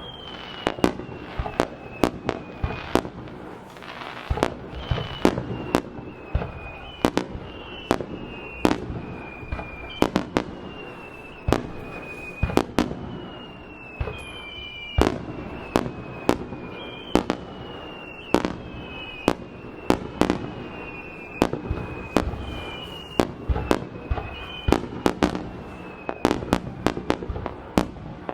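Fireworks display: aerial shells bursting in an irregular run of sharp bangs, about one or two a second with quick clusters, over a continuous rumble. Through it come repeated high whistles that each slide down in pitch over a second or two.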